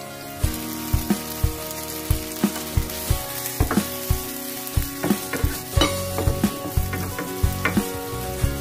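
Sliced okra frying in hot oil with garlic and chillies in a nonstick pan, sizzling steadily, with a wooden spatula stirring and scraping it around. The sizzle thickens just after the okra goes in.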